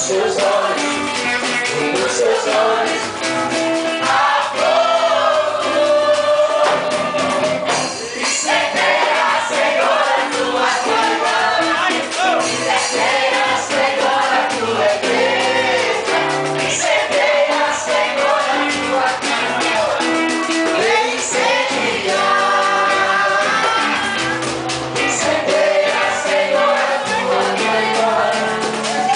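A group of voices singing a gospel worship song with instrumental accompaniment.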